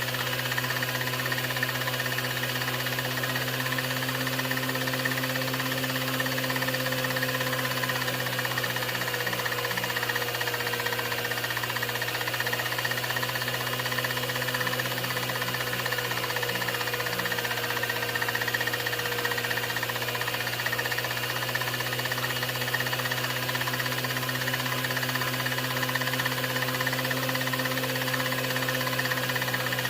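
A steady machine hum with hiss that does not change.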